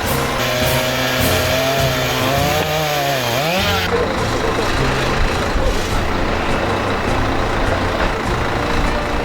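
A heavy vehicle or machine engine running steadily. For the first four seconds a pitched sound rises and falls, dipping and climbing sharply before it stops.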